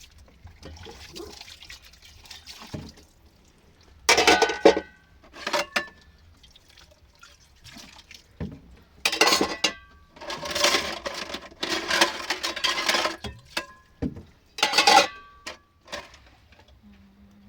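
Water being poured and splashed in several short bursts, with light clinks of dishes.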